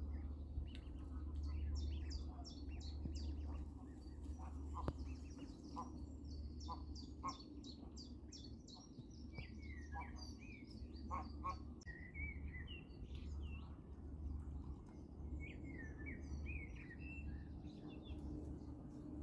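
A dawn chorus of wild songbirds: many quick high chirps and short rising and falling whistled calls, with a run of short soft clicks in the middle, over a steady low rumble.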